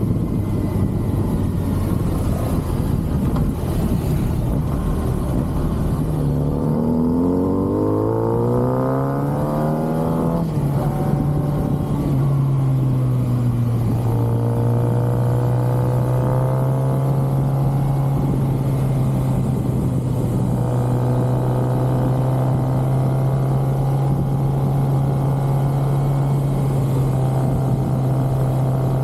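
Stock-exhaust 2023 Kawasaki ZX-6R inline-four engine under way: the revs climb from about six seconds in, fall with a gear change about ten seconds in, then settle to a steady cruise.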